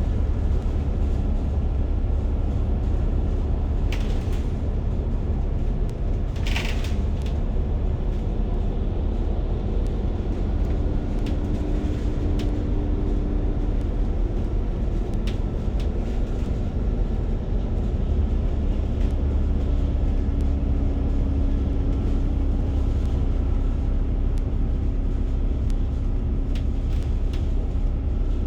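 A city bus riding, heard from inside the cabin: a steady low rumble of engine and road, with a faint engine hum that comes and goes and a sharp knock or rattle about six seconds in.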